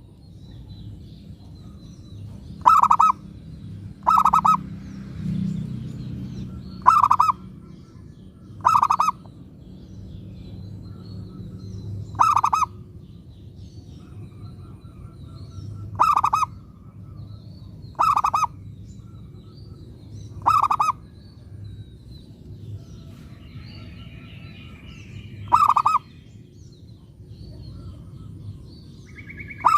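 Zebra dove (perkutut) cooing in short loud phrases, about ten of them a few seconds apart, with faint chirps of small birds in between.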